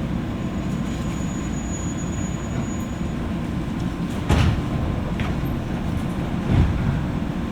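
Inside a JR West 201 series electric commuter car: a steady low rumble, with two short thumps about four and six and a half seconds in.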